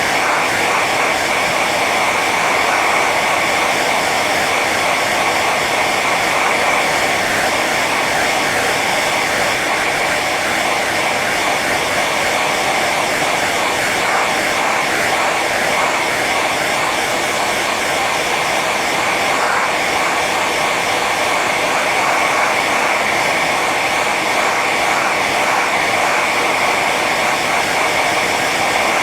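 Hair dryer running steadily on its high setting: a constant rushing of air with a steady motor whine.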